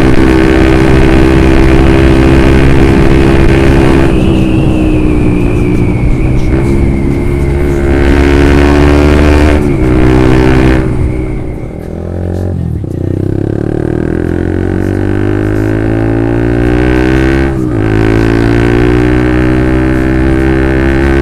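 Honda CB150R's single-cylinder engine through a Lone Ride aftermarket exhaust while riding, with a short break in the note at each gear change. The revs drop away about eleven seconds in, then climb again, with another shift and climb near the end.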